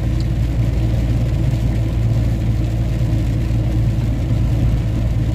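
Scania 113 truck's diesel engine running at a steady cruise, heard from inside the cab as an even low drone mixed with road noise.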